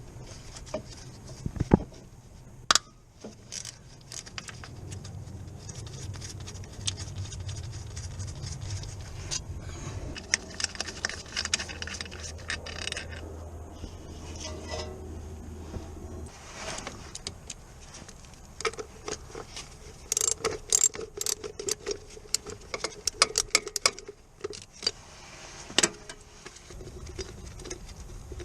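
Irregular metallic clicks, clinks and knocks of tools and parts being handled during hands-on car repair work, with a faint low hum through the first half.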